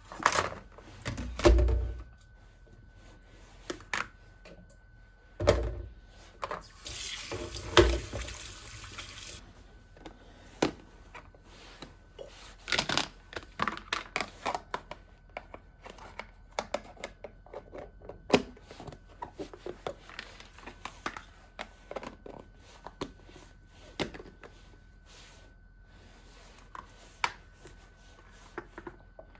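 Irregular knocks, clicks and thuds of household items and containers being handled and set down, the loudest near the start. About seven seconds in there are a couple of seconds of rustling, hissing noise.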